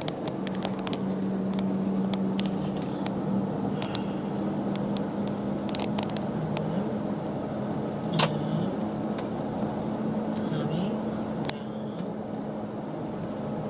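Car driving, heard from inside the cabin: a steady engine drone and road noise, with frequent sharp clicks and knocks, the loudest about eight seconds in.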